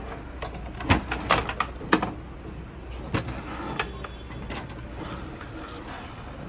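Irregular sharp clicks and knocks of a plastic fireworks firing console being handled, clustered about one to two seconds in and a few more after, over a steady low hum.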